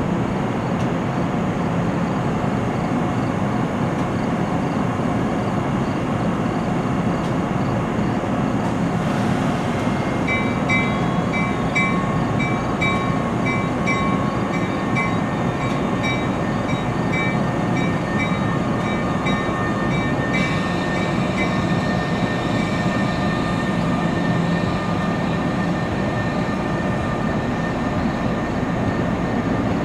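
NJ Transit train hauled by an ALP-46 electric locomotive, standing at the platform and then starting to pull out, with a steady hum. A repeated high electronic beep sounds for about ten seconds from about ten seconds in, followed by a thin steady whine.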